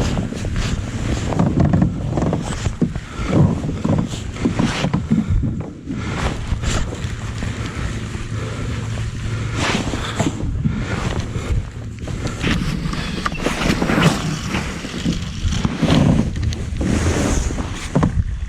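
Wind buffeting the microphone in uneven gusts, with water lapping against the kayak's hull.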